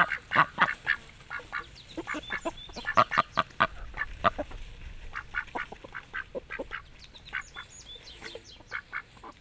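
Ducks quacking, many short calls in quick succession, some overlapping, thinning out near the end.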